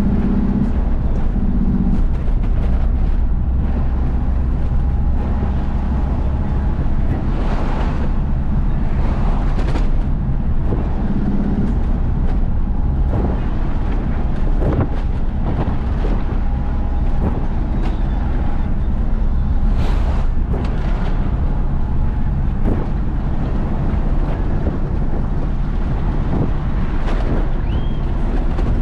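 Isuzu FRR90 truck's diesel engine and road noise while driving, a steady low drone with scattered short knocks and rattles.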